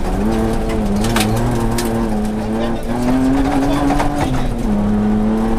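Mitsubishi Pajero's 3.8-litre V6 engine running hard under load, heard from inside the cabin. Its pitch rises about three seconds in, then drops about a second later, and sharp clicks of gravel hitting the body come through.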